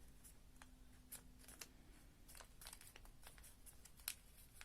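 Faint rustling and creasing of origami paper being folded by hand, a scatter of small crinkles with a sharper one about four seconds in.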